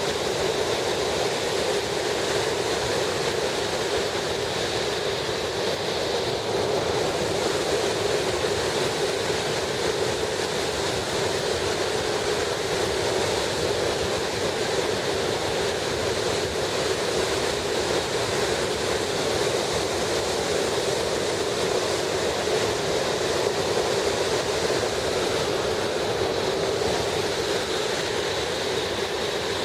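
Waterfall pouring: a loud, steady roar of falling water.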